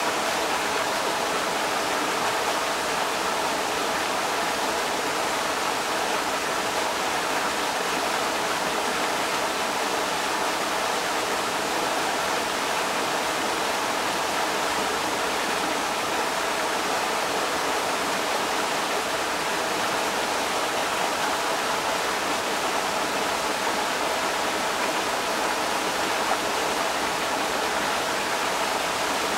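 Creek water rushing over rocks, a steady, unbroken rush of water.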